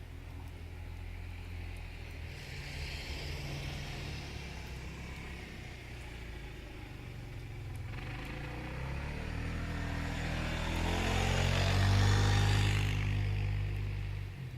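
Car engine running, then revving up in pitch, with a hiss that builds alongside it, loudest about twelve seconds in, then dropping off suddenly just before the end.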